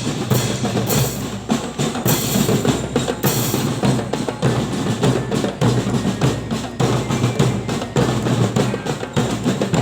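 Drums played continuously in a fast, dense run of strokes, with deep hits under bright, splashy highs.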